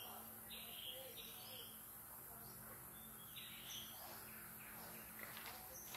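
Faint outdoor forest ambience with birds chirping: short, high calls, several in a row, over a steady low background.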